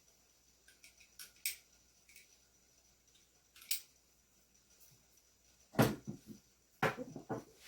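Small hard parts being handled on a bench: scattered light clicks and taps, then a few louder knocks near the end.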